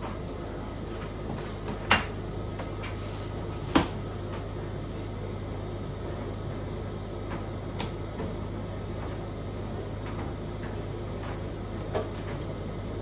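Washing machine running with a steady low hum, with a few sharp knocks, the loudest about two and four seconds in.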